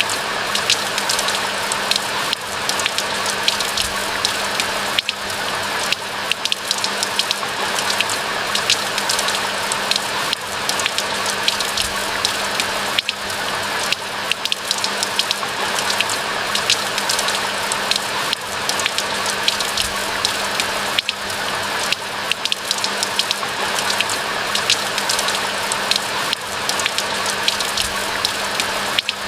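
Steady rain falling, an even hiss of rainfall dotted with many close, sharp individual drop hits. A faint steady low hum lies underneath.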